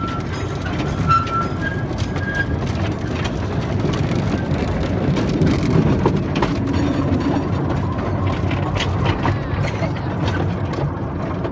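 Small ride-on tourist train running along its track: a steady rumble with a constant scatter of rattling, clicking knocks from the cars and wheels.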